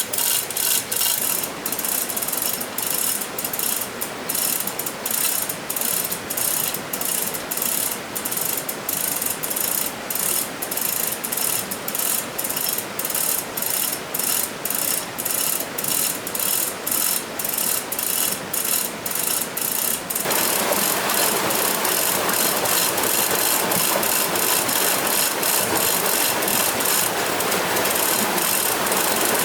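Mechanical ratchet-like clicking in a steady rhythm, a few clicks a second. About twenty seconds in it changes suddenly to a louder, denser steady rattle.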